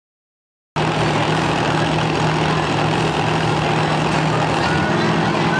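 Monster truck engine running steadily, loud, cutting in suddenly under a second in, its pitch stepping up slightly near the end.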